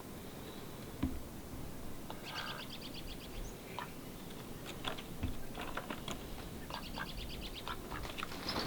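Small birds chirping, with several short trills of rapid, evenly repeated high notes and a few soft knocks in between.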